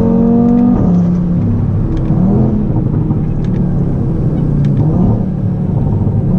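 Audi TT RS five-cylinder turbo engine through a loud aftermarket Ego X exhaust, heard from inside the cabin: revs climbing, a gear change about a second in, then running at changing revs under way with a few faint sharp crackles.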